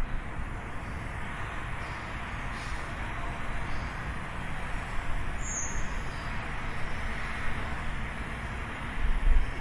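Steady hum of distant city traffic, with a single short high bird chirp about five and a half seconds in. A low rumble swells up near the end.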